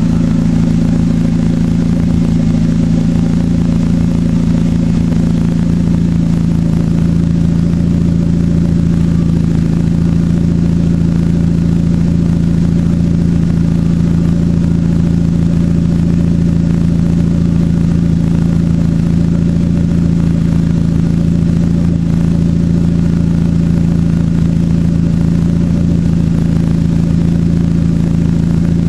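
Dodge SRT-4's turbocharged 2.4-litre four-cylinder engine running on E85, heard loud through its side-exit exhaust. It runs at a steady speed with no revving.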